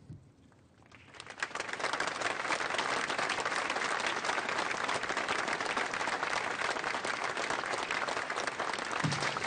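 Audience applauding, the clapping swelling in about a second in and holding steady.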